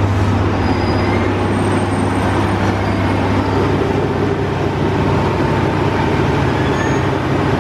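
JR Kyushu KiHa 72 series diesel railcar set running with a steady low rumble and hum as it rolls slowly into the platform on arrival.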